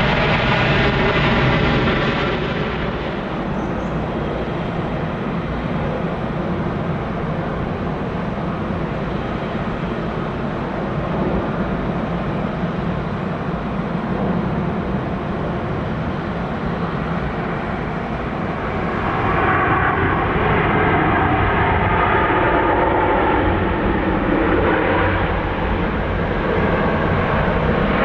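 Jet airliner engines running: a steady, loud jet noise that eases after about two seconds and swells again about two-thirds of the way through.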